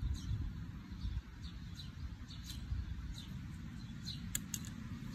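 Small birds chirping now and then, short high calls that drop in pitch, over a steady low rumble, with a few sharp clicks about four seconds in.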